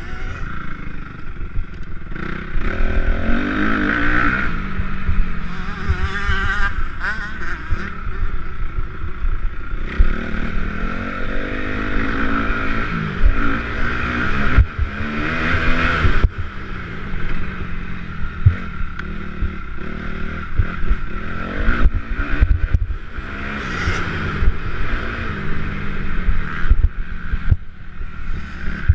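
Motocross bikes racing: dirt-bike engines revving hard and backing off over and over, their pitch sweeping up and down as they pass.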